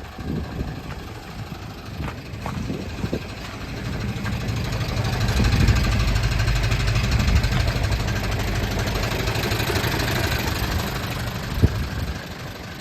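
Hino H07D inline-six diesel engine of a 1992 Hino Ranger truck running, getting louder about four seconds in, holding there, then easing back near the end. A single sharp knock sounds near the end.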